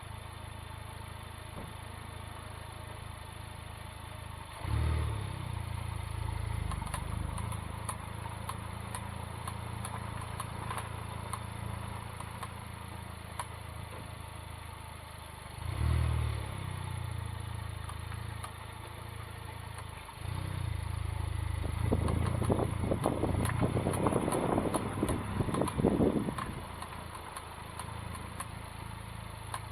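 Honda Civic Type R FK8's turbocharged four-cylinder engine running at low speed, swelling louder twice, with a run of sharp clicks from the front passenger wheel while turning, thickest about three quarters of the way through. The owner has checked the CV boot and joint and found them intact.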